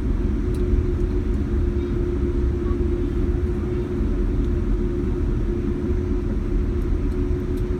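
Steady cabin rumble inside a Boeing 787 Dreamliner rolling on the ground after landing, with a steady hum held at one pitch over it.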